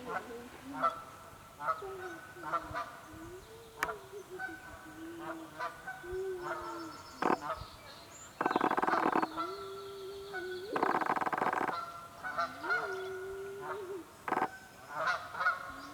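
Canada geese honking repeatedly in short calls, with two longer, louder bursts about eight and eleven seconds in.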